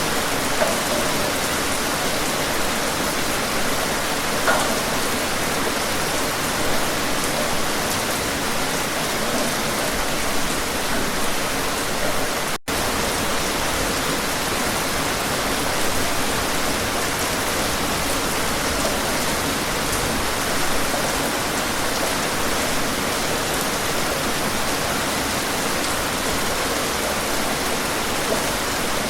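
Steady rain falling, an even hiss with a few louder drops standing out. The sound cuts out for a split second near the middle.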